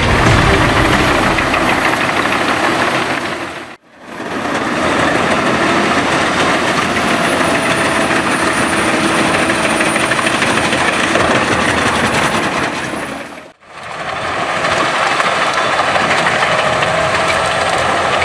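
Albach Diamant 2000 wood chipper running under load, a dense mechanical noise with a faint steady high whine. It briefly fades out and back in about 4 seconds in and again near 14 seconds.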